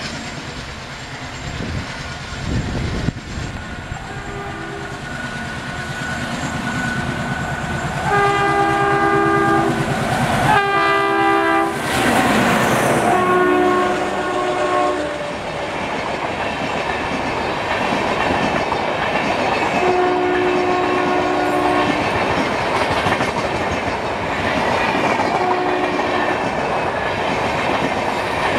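Indian Railways ALCO diesel locomotive passing and sounding its horn in several blasts, the first and longest around eight to twelve seconds in and shorter ones later, over the rumble of the engine and the clatter of wheels on the rail joints that grows louder as the train goes by.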